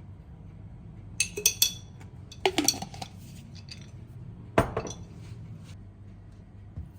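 Kitchen dishes and utensils clinking and knocking: two quick clusters of clinks, then one sharp knock about four and a half seconds in, over a low steady hum.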